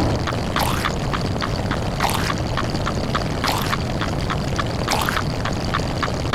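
Layered edited sound effects repeating in a fast rhythm: quick clicks about five a second, a noisy whoosh about every second and a half, over a steady low rumble.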